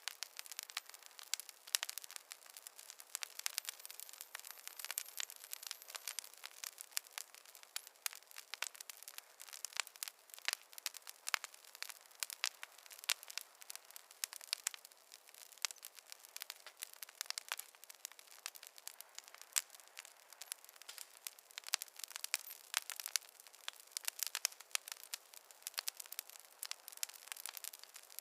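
Fireplace fire crackling: a dense, irregular stream of small pops and snaps over a faint hiss.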